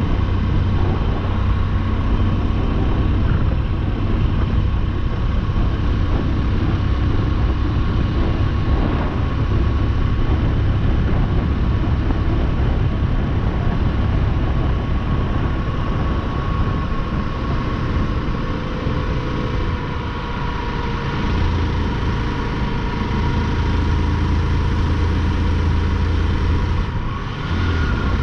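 Motorcycle engine running at a steady cruise with road and wind noise, a held engine tone throughout; the sound dips briefly near the end, as if the throttle is closed for a moment, then picks back up.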